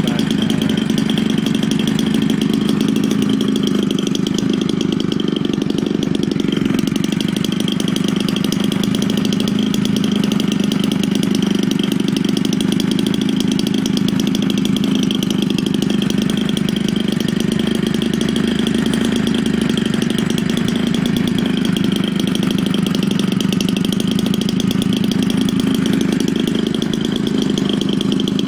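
Homelite 30cc two-stroke engine, converted for a giant-scale radio-control airplane and fitted with a larger Walbro smooth-bore carburetor, running steadily at an even speed.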